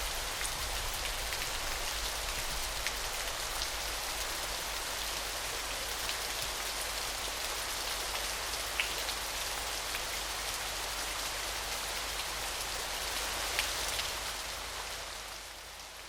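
Small waterfall splashing steadily: an even, bright hiss of falling water with scattered droplet splashes, fading out near the end.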